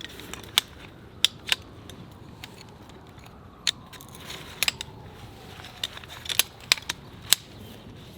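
About ten sharp, irregular clicks and snaps over a low steady hiss, with a faint falling tone through the middle.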